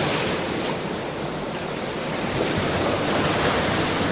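Ocean surf washing onto a shore in a steady wash of noise, easing slightly about a second in and building again as the next wave comes in.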